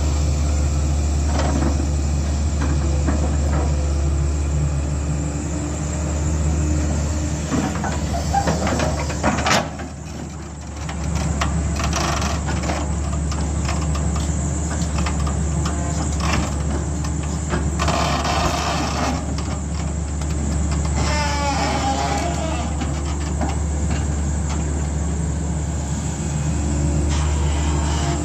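Heavy-machinery diesel engine running steadily with a low hum. A sharp clank comes about nine and a half seconds in, and the engine briefly runs quieter just after it.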